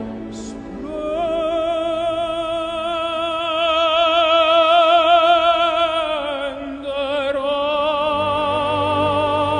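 Operatic singing: a high voice holds one long note with wide vibrato, slides a little lower about six seconds in, then holds another note, over soft accompaniment.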